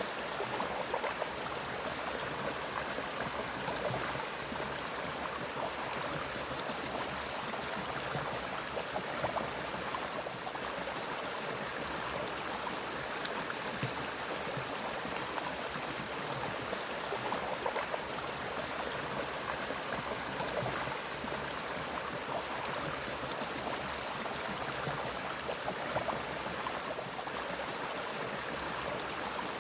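Mountain stream flowing steadily in a forest, a continuous rushing of water with a thin, steady high-pitched tone above it.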